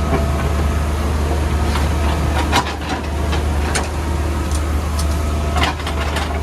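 Diesel engine of a Caterpillar backhoe loader running steadily under load, with about five sharp knocks and cracks scattered through, as the bucket breaks up the road surface.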